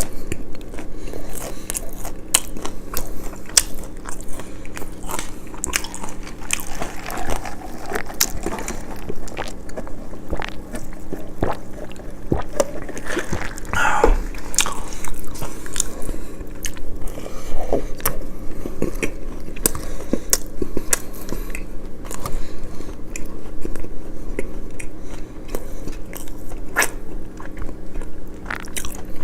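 Close-miked eating: a person biting and chewing crunchy food, with a dense run of sharp, irregular clicks of crunching throughout.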